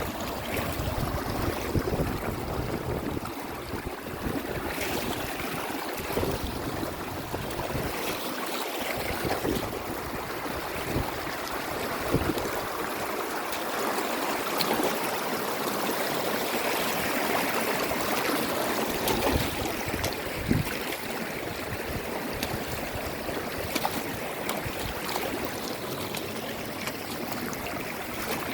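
Stream of running water flowing steadily, with small scattered splashes.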